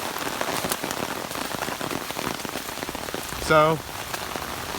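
Heavy rain falling steadily, a dense hiss of pattering drops.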